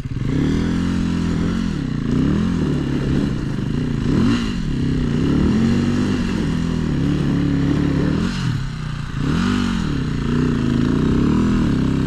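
Dirt bike engine revving up and down over and over, the throttle opened and closed repeatedly so that the pitch keeps rising and falling.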